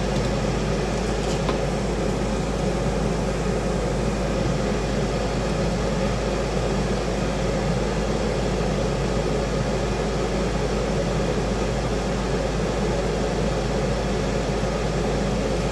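Kitchen fan running steadily, an even rushing noise over a constant low hum.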